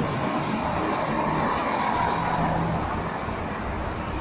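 Chiltern Railways diesel multiple unit moving along the platform close by, a steady rumble of engine and wheels with a hum that holds through.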